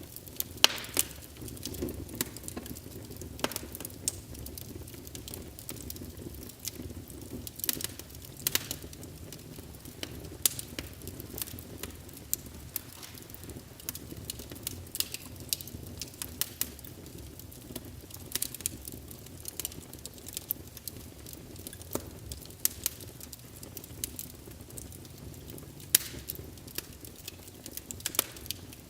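Wood fire burning in a fireplace: a steady low rumble of flames with frequent sharp crackles and pops from the burning logs, a few of them louder.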